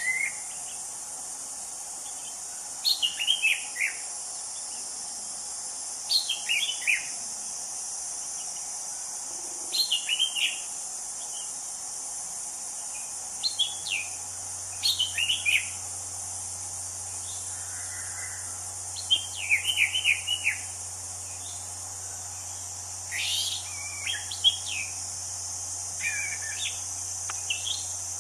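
Anis cendana thrush singing in the wild: short phrases of quick, descending whistled notes, one phrase every two to four seconds. A steady high insect drone runs underneath.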